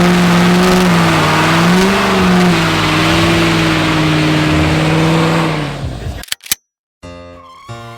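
A diesel pickup truck's engine is held at high revs through a burnout, its pitch wavering only slightly over a dense hiss of spinning tyres. It drops away about six seconds in, and music begins near the end.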